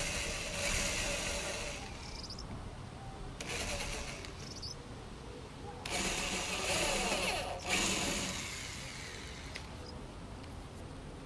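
Power drill running in three bursts, a long one, a short one and a longer one about six seconds in, with the bit cutting into wood as screw holes are countersunk.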